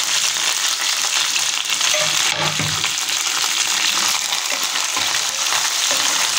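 Sliced onions and green chillies sizzling in hot oil in a nonstick pan, stirred with a spatula.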